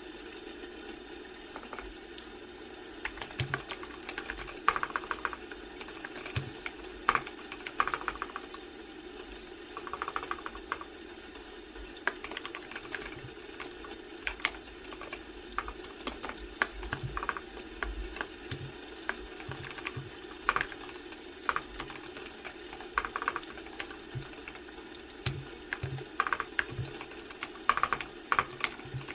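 Typing on a computer keyboard: irregular runs of keystroke clicks, starting about three seconds in, over a steady low hum.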